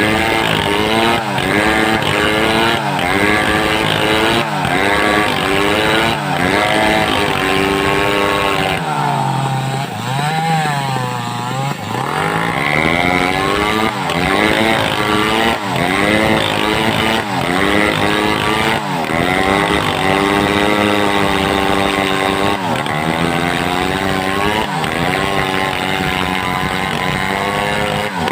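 Homemade two-stroke chainsaw running hard while cutting wood, its pitch sagging and recovering every second or two under load. Around a third of the way in it drops to a lower, wavering speed for a few seconds, then revs back up and cuts again.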